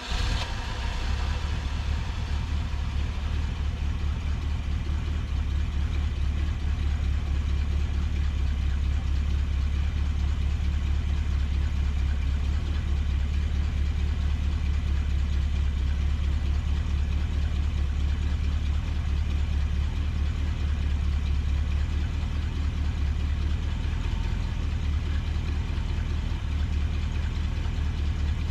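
Old truck engine idling steadily and evenly after a tune-up with new spark plugs; it runs smooth.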